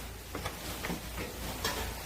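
A few faint, irregular knocks and clicks over a steady low hum.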